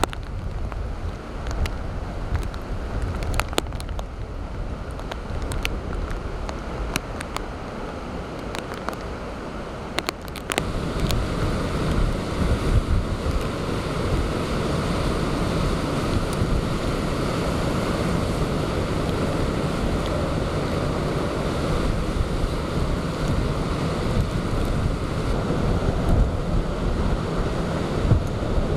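Typhoon storm-surge waves crashing and surging in strong wind, with wind buffeting the microphone. Scattered sharp clicks sound in the first ten seconds; about ten seconds in the sound changes abruptly and becomes louder and steadier.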